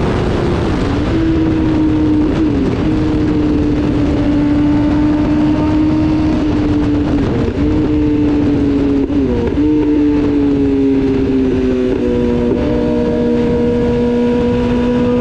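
BMW S1000RR inline-four engine running on the overrun as the bike slows from high speed, its note steady and slowly falling, with a few brief breaks as it changes down gears. Heavy wind rush sounds over it.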